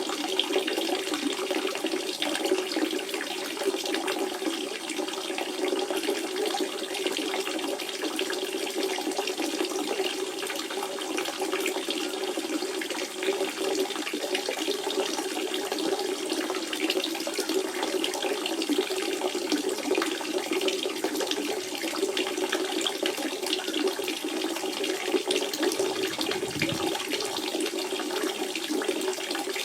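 Natural spring water running in a steady, even flow that does not change.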